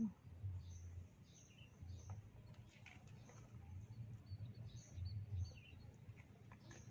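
Small birds chirping faintly: short, scattered high chirps and whistles, over a low rumble.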